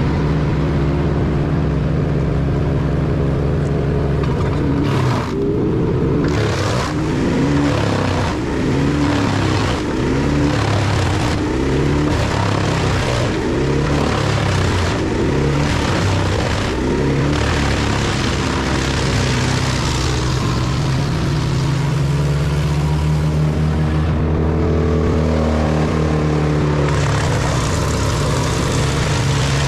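Heavy machine engine running hard under varying load, its pitch dipping and recovering, with repeated cracks and knocks through the first half. The engine steadies in the second half, with a brief rise in pitch near the end.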